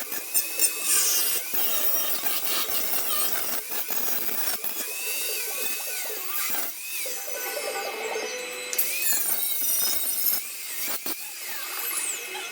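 Power tool working sheet steel, its whine dipping and recovering again and again as it is pressed into the metal, with a bright hiss over it.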